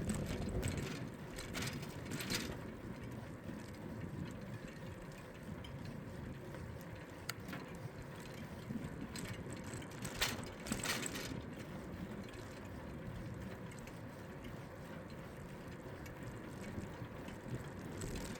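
A bicycle ridden along a city cycle path: the rear freewheel ticks in short spells while coasting, over a steady rush of wind and tyre noise.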